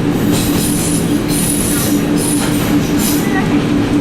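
Echizen Railway electric train running, with a steady low hum and several bursts of high-pitched hiss and wheel squeal from the rails.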